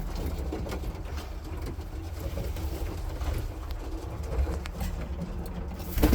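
Roller pigeons cooing softly in their loft, with a low rumble underneath.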